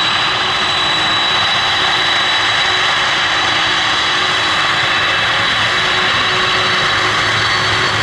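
Boeing 747-400 jet engines running steadily: an even rush of noise with a constant high whine that neither rises nor falls.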